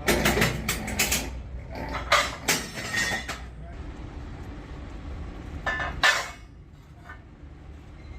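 Metal clanking and knocking: a burst of clanks in the first second, three sharp clanks over the next two seconds and one more about six seconds in, each ringing briefly, over a low steady hum.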